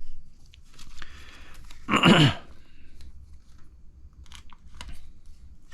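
Plastic parts bag crinkling and rustling as kit parts are picked out of it, with a few light clicks of small plastic parts near the end. About two seconds in there is one short, loud sound that falls in pitch.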